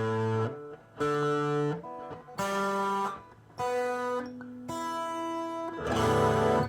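Guitar strings picked one at a time through an ARP Avatar hex fuzz, testing the fuzz on each string. Each note is buzzy and rich in overtones and is cut short, about one a second, six in all. The last is the loudest and roughest.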